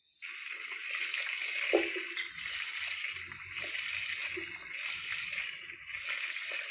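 Fryer pot (olla freidora) sizzling steadily, a continuous hiss with a few small pops and crackles.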